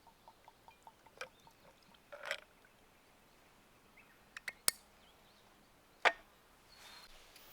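A soft, even ticking about four to five times a second that stops about a second in, then scattered sharp clicks and knocks, the loudest two about four and a half and six seconds in.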